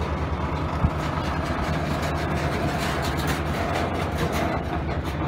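Covered hopper cars of a freight train rolling slowly past, a steady low rumble of wheels on rail with a sharp click about a second in.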